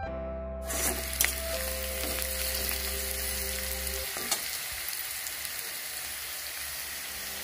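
Diced potatoes and chopped onion sizzling in hot oil in a metal kadai, stirred with a spatula that scrapes and knocks against the pan a few times. The sizzling starts under a second in; background music under it fades out about four seconds in.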